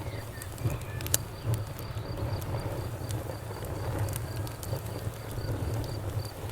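Campfire crackling, with scattered sharp pops over a low steady rumble, while a cricket chirps in a steady rhythm of about three chirps a second.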